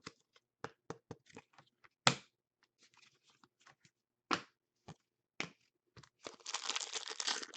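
Hockey trading cards handled on a table, with scattered sharp clicks and taps, then from about six seconds in a continuous crackling as a foil card pack wrapper is torn and crinkled.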